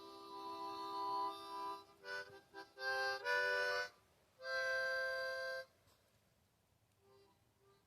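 Harmonica played in held chords, several notes sounding at once, with a few short notes in between. It stops about six seconds in.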